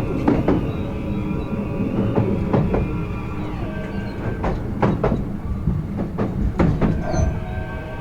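Kintetsu 16600-series electric train running, heard at the car end: steady wheel and track rumble with faint whining tones, and the wheels clicking over jointed rails in pairs about every two seconds.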